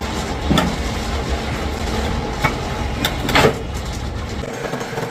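A heavy machine runs with a steady low rumble and stops a little over four seconds in. Several sharp metal clanks sound over it, the loudest about three and a half seconds in; they are typical of bulldozer track-chain links being worked.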